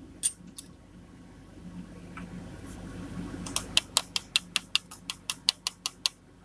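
Hand tools working on a piston being fitted into an engine cylinder: a couple of single clicks, then a fast run of about fifteen light, sharp clicking taps, some six a second, which stops shortly before the end.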